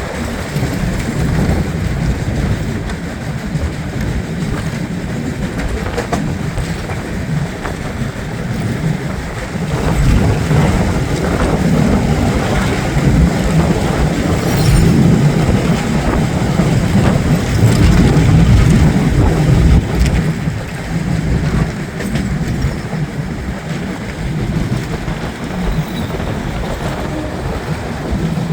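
Moving train running along the rails: a continuous low rumble with scattered light clicks, growing louder for about ten seconds in the middle.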